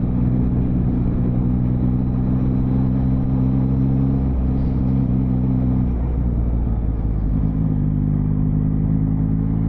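Motorcycle engine running steadily, its pitch wavering and shifting about six seconds in before settling again.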